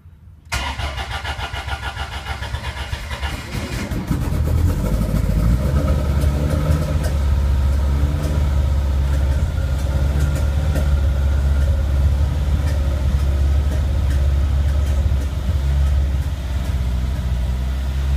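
Full-race 2.0-litre eight-valve engine in a Lancia Stratos being cranked by the starter for about three and a half seconds, then catching and settling into a steady idle on its first start after being built and pre-oiled.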